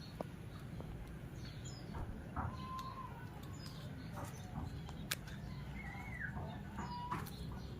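Birds calling: a few short whistled chirps over a low background rumble, with scattered light clicks.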